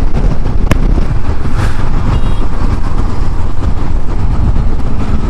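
Honda CB500X parallel-twin motorcycle cruising at highway speed: a steady, loud low rumble of engine, tyre and wind noise. A single sharp click comes just under a second in.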